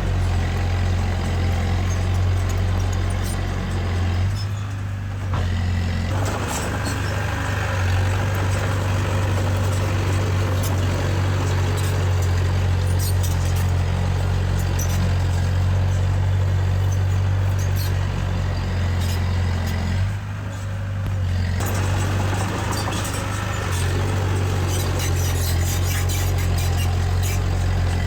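Diesel engine of heavy earthmoving machinery running steadily, with scattered metallic clicks and rattles. The engine sound twice drops back briefly, about four seconds in and again near twenty seconds.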